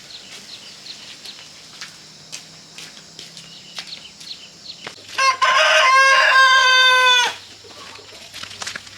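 A rooster crows once, a single drawn-out call of about two seconds that starts about five seconds in. Faint scattered clicks and ticks come before it.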